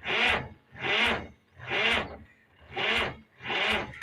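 Rhythmic rasping strokes, about one a second, each a short harsh scrape.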